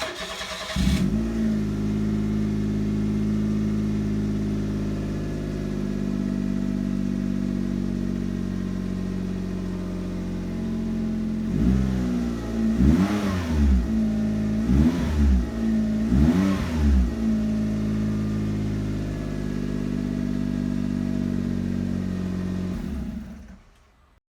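Suzuki Twin's three-cylinder engine cranked briefly and catching, then idling steadily through its exhaust. About halfway through it is revved three times, each rev rising and falling in pitch, then idles again and is switched off near the end.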